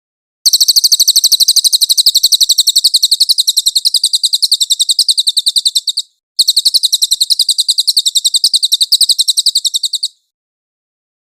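A cililin songbird singing a rapid, even trill of high repeated notes, about nine a second. It sings in two long phrases with a brief break between them. The recording is clean, a 'masteran' for tutoring songbirds.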